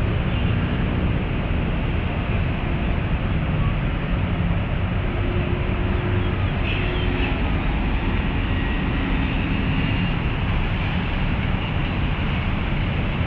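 Steady rumble of city traffic, with faint engine hums in it and a brief high chirp about seven seconds in.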